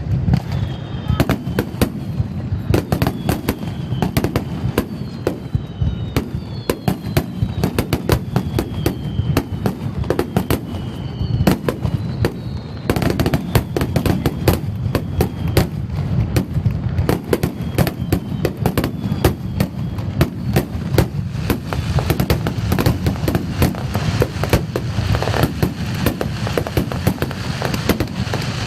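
Fireworks finale: a dense, unbroken barrage of aerial shell bursts and crackling over a deep rumble. Faint whistles falling in pitch sound through the first half.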